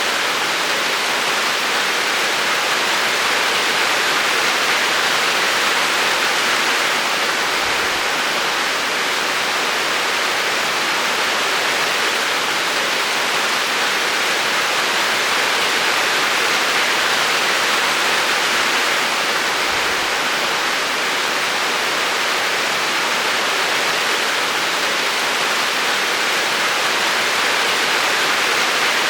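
Steady rain falling, an even hiss that holds constant without a break.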